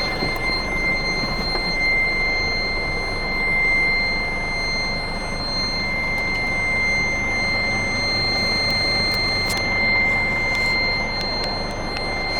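Scania G450 truck running steadily, with a constant high-pitched tone held over the engine noise throughout.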